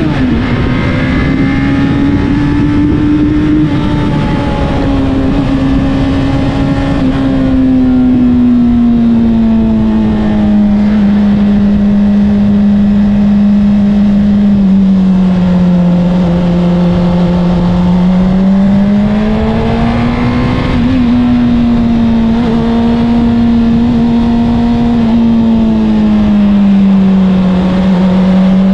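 Honda CBR600RR's inline-four engine through an Akrapovic exhaust, ridden at steady part throttle. The revs drop right at the start, then rise and fall gently as the throttle is eased on and off.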